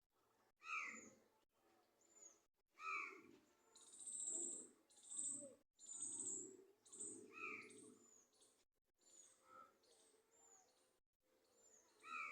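Birds calling outdoors, with no speech. Short, high, falling chirps repeat about once a second, and a louder, lower call comes every few seconds.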